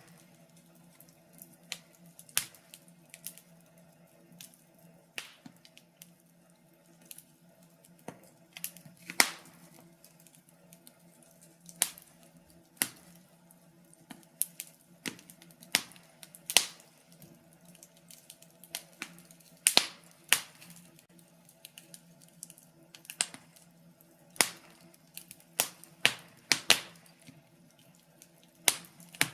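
Wood fire crackling: irregular sharp pops and snaps, uneven and scattered through the whole stretch, over a steady low hum.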